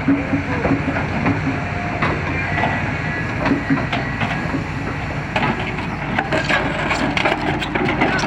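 Excavator working with a steady low engine rumble under clanking and knocking of steel, the knocks growing denser near the end.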